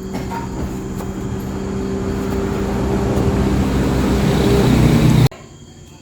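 A vehicle engine running steadily, slowly growing louder, then cut off abruptly about five seconds in.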